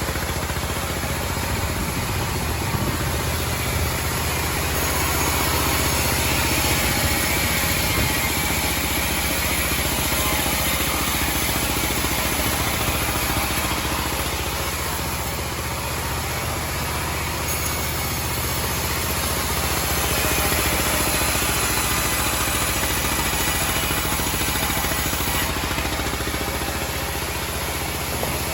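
Homemade band sawmill running steadily, its motor and band blade making a continuous hum and whirr. The loudness swells a little a few seconds in and again about two-thirds of the way through.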